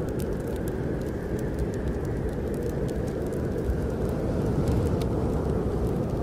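Wood fire crackling in a fireplace, with scattered sharp pops and ticks over a steady low rush of snowstorm wind.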